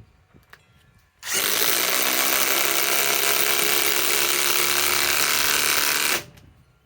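Ryobi PSBIW25 compact cordless impact wrench hammering a galvanized lag screw into wood that is not pre-drilled. It starts about a second in, runs steadily for about five seconds, then stops.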